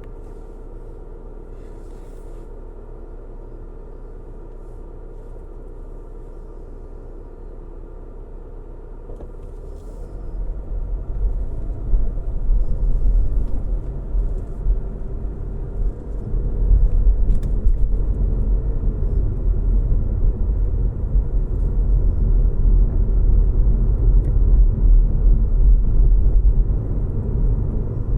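Car driving: a steady low engine and road hum that, about ten seconds in, gives way to a deep tyre and road rumble which grows louder again a few seconds later and stays loud.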